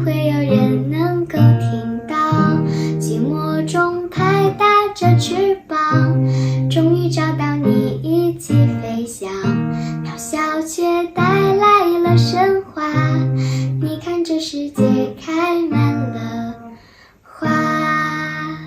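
Acoustic guitar strummed and plucked under a singing voice. A last strummed chord rings out near the end.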